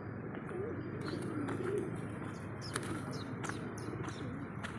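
A large flock of birds calling together: a dense, steady chorus of low, wavering, overlapping calls, with short sharp chirps and clicks scattered over it.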